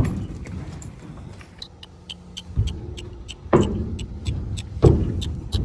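A vehicle's engine running as it drives over rough ground, with a steady low rumble, frequent small rattles and clicks, and several heavier jolts about two and a half, three and a half and five seconds in.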